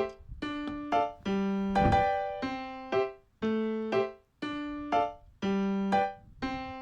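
Background music: a piano-like keyboard playing a series of struck notes that ring and fade, in short repeating phrases.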